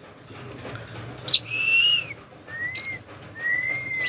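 Indian ringneck parakeet whistling: three clear whistles. The first is the highest and longest, starting with a sharp click about a second in; two shorter, lower whistles follow.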